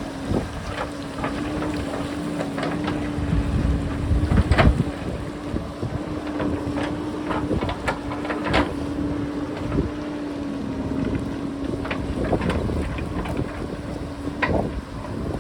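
JCB backhoe loader's diesel engine running with a steady hum, while rocks clatter and knock in a string of sharp hits, the loudest about four and a half seconds in. Wind buffets the microphone underneath.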